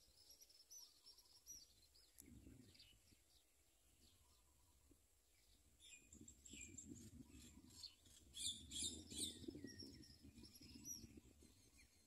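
Small birds chirping faintly: quick runs of short, high chirps, thickest about two-thirds of the way through, over a low rumble.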